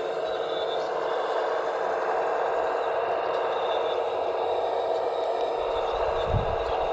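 Hydraulic pump and electric drive of a scale radio-controlled construction machine running steadily, a dense mechanical whine with some scraping and rattling. A low thump comes about six seconds in.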